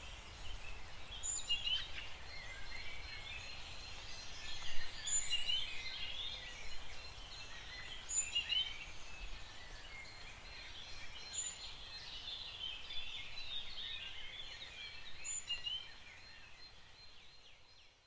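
Birds chirping and calling over a faint steady hiss, fading out near the end.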